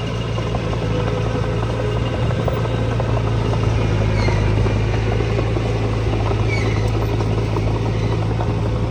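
Diesel engine of heavy earthmoving machinery running steadily at a constant speed, with an even low drone.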